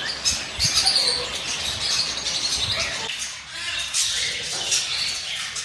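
Many caged birds chirping and squawking together: a busy chatter of short, shrill calls.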